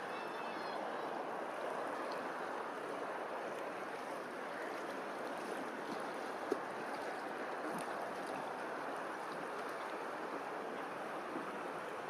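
Steady faint rushing noise with a single sharp click about six and a half seconds in.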